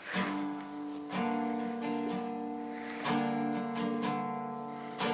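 Acoustic guitar strumming slow, ringing chords, a new chord struck about every one to two seconds: the instrumental intro of the song.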